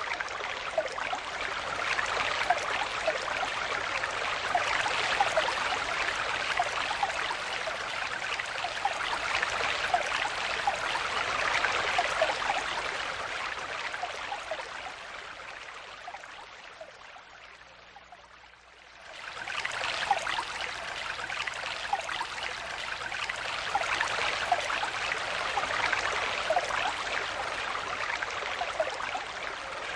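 Stream water flowing and babbling over stones, a steady rush with small bubbling gurgles. A little past halfway it fades down to faint over a few seconds, then comes back at full strength suddenly, like a loop point in the recording.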